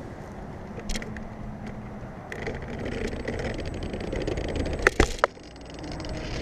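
Electric RC10L pan car running, a steady noise of motor and tyres that swells partway through, then two sharp knocks in quick succession about five seconds in.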